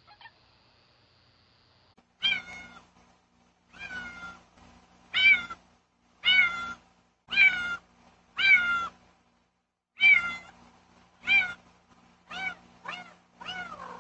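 A house cat meowing repeatedly, about eleven loud calls roughly a second apart, starting about two seconds in. It is a cat that has come home after a night out, calling at the front door to be let in. The calls are picked up by a doorbell camera's microphone, with a faint steady hum under them.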